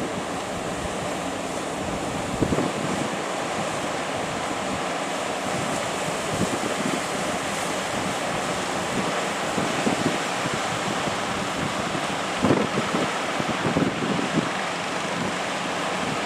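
Ocean surf breaking continuously, with wind buffeting the microphone and a couple of brief louder gusts.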